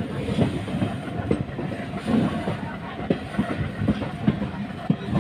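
Moving passenger train heard from aboard: a steady rumble of wheels on rail with irregular sharp knocks and clatter from the wheels and coaches.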